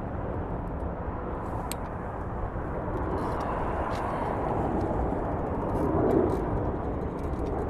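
Wind rumbling and buffeting across a phone's microphone, swelling briefly about six seconds in.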